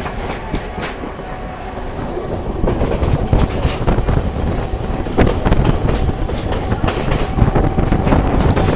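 Train running along the track, its wheels clattering over the rails with a steady rumble underneath, growing louder about two and a half seconds in.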